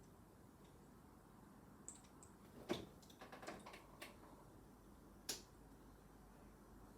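Faint clicks of small plastic Lego pieces being handled and pressed together: a quick cluster of clicks about three seconds in, then one sharper click a couple of seconds later.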